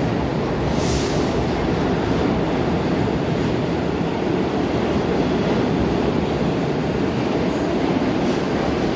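R46 New York City subway train running through the station with a steady, loud rumble. There is a brief hiss about a second in.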